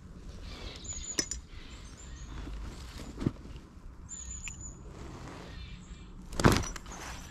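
Several short, thin, high bird calls over a steady low rumble, with a few light knocks and one louder thump near the end.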